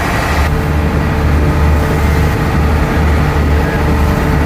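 Small passenger ferry's engine running under way, heard loud on board as a low hum that swells and fades. A hiss above it drops away about half a second in.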